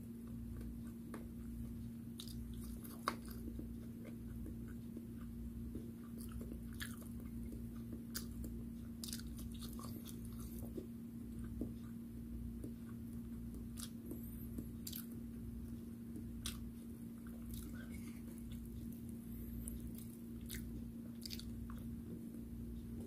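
Close-miked chewing of fried food, with scattered small wet clicks, smacks and crunches, one sharper click about three seconds in. A steady low hum runs underneath.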